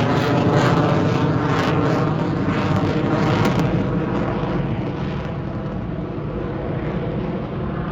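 Airplane engine drone, a steady pitched hum over a low rumble, loud at first and fading slowly as the plane moves away.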